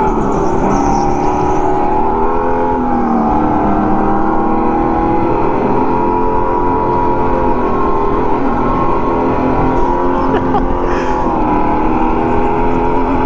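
Go-kart motor running under way, heard from onboard: a steady tone whose pitch rises and falls gently as the kart speeds up and slows through the corners.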